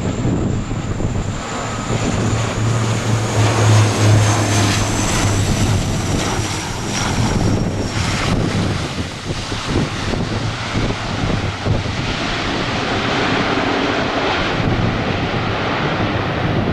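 Airliner's engines passing close by on landing: a high whine that slowly falls in pitch over the first several seconds, over a low rumble that is loudest about four seconds in. Strong wind buffets the microphone.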